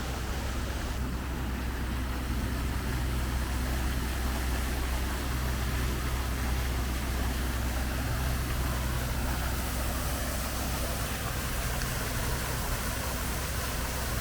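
Car on the move: a steady low engine rumble with road and tyre noise, unchanging throughout.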